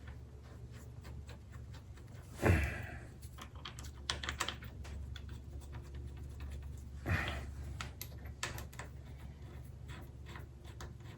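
Small metal clicks and taps as the fork cap and its bolts are handled and fitted loosely to the bottom of the fork leg, over a steady low hum. Two louder, short breathy sounds come about two and a half seconds in and again about seven seconds in.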